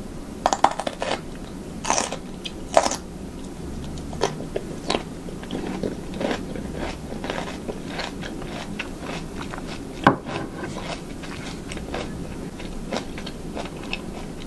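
A person chewing a mouthful of food: a steady run of wet mouth clicks and smacks, the loudest in the first few seconds and one sharp one about ten seconds in.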